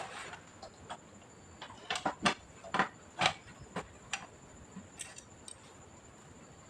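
A run of light clicks and taps from handling the plastic and metal parts of an all-in-one PC during disassembly, bunched together in the middle and thinning out toward the end.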